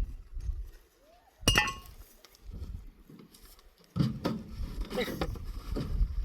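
Hard objects clinking: one sharp, briefly ringing clink about a second and a half in, then a run of knocking and handling noise from about four seconds on.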